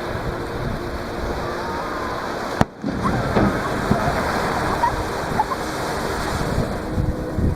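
Surf washing onto the beach at the water's edge as a steady noise of breaking and receding waves, with a brief break about two and a half seconds in.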